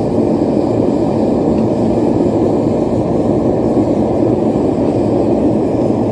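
Propane forge burner running, a loud, steady rushing noise.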